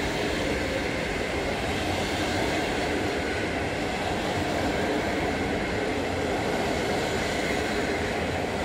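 PKP Intercity passenger coaches rolling past on the rails: steady wheel-on-rail running noise.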